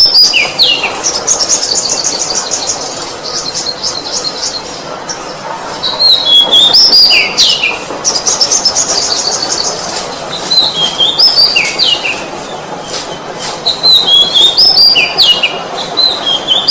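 Oriental magpie-robin (kacer) singing in repeated phrases: clear whistled notes sliding downward, each followed by a fast, high chatter of repeated notes. A phrase comes about every six seconds, over a steady background hiss.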